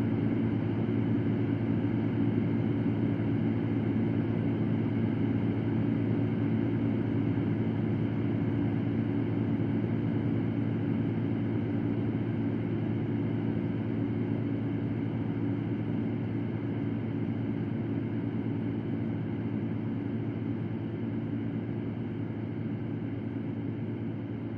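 Electric fan running steadily: an even airy whoosh over a low motor hum, easing slightly quieter toward the end.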